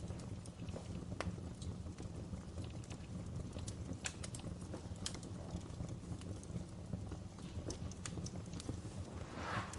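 Wood fire crackling in a fireplace: irregular sharp pops and snaps over a steady low rumble, with a brief hiss near the end.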